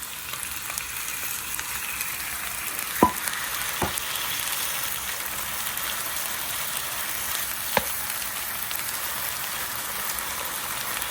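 Chicken fried rice sizzling on a hot grill with a steady frying hiss, as chicken and vegetables are added. Three sharp clicks of a utensil against the pan, two close together about three seconds in and one more near eight seconds.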